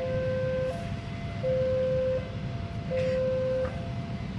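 Railway level-crossing warning alarm sounding its two-tone signal, alternating a lower and a higher tone about every three-quarters of a second, the sign that a train is approaching. A steady low rumble runs beneath it.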